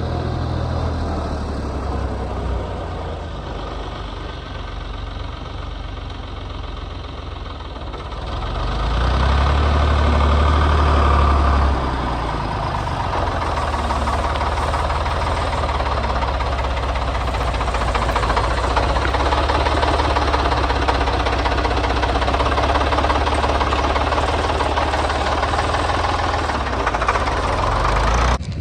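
Diesel engine running with a knocking clatter, getting louder and working harder for a few seconds about a third of the way in, then running steadily; the sound cuts off suddenly near the end.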